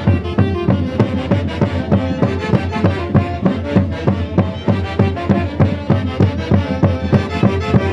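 Andean festival band music in the Santiago style of the Mantaro Valley, a melody over a quick, steady beat.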